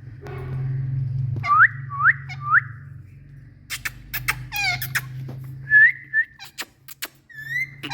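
Pet parrots calling: three quick rising whistles, then a harsh, screechy call among sharp clicks, and more short whistles near the end. A steady low hum runs underneath.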